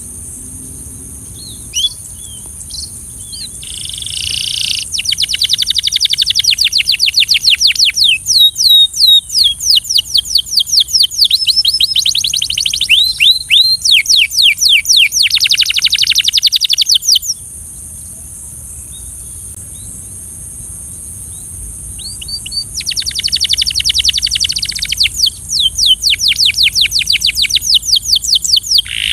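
Domestic canary singing, with long trilled phrases of rapidly repeated down-slurred notes. A few scattered notes come first, then one long bout, a pause of several seconds, and a second bout near the end. A faint steady high hiss runs underneath.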